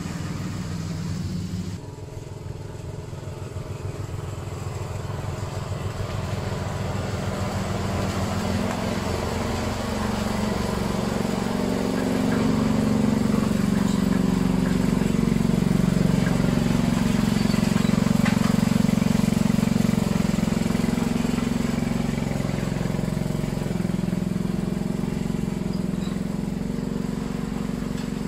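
Petrol lawn mower engine running steadily while cutting long grass, the first cut in weeks. It grows louder toward the middle and eases off a little near the end.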